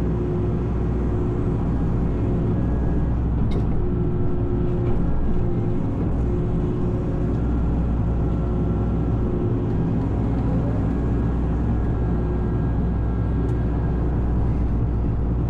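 A steady vehicle engine drone with a low rumble, holding even throughout.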